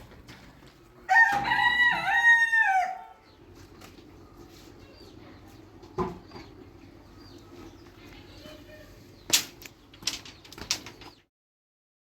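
A rooster crows once, a loud call about two seconds long. A few sharp knocks follow near the end.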